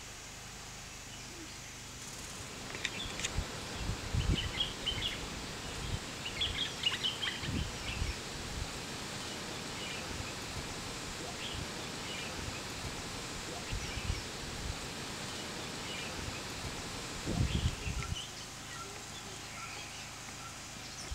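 Small birds chirping in short, scattered calls over a steady outdoor hiss, with a few low rumbling thumps on the microphone.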